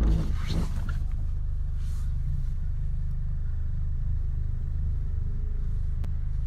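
Car engine running steadily, a low drone heard from inside the cabin, a little louder for a moment at the start.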